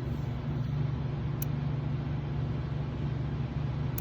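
A steady low mechanical hum, with a couple of faint, sharp ticks about a second and a half in and near the end.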